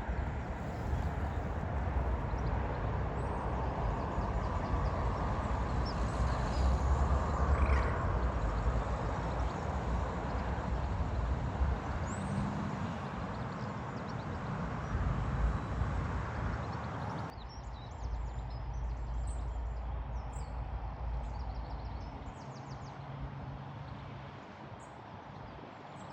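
Road traffic noise, swelling to a peak and fading as a vehicle passes. Then, after a sudden drop, a quieter background with short bird chirps.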